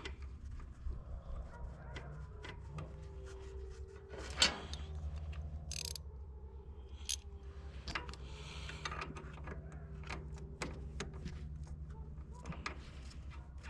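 Small metal clicks and taps of a lock washer and nut being fitted and tightened on the wire's terminal stud with a ratcheting wrench, over a steady low hum. One louder click comes about four seconds in.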